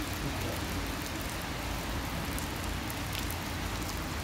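Heavy rain falling steadily: a constant hiss with scattered small drop ticks.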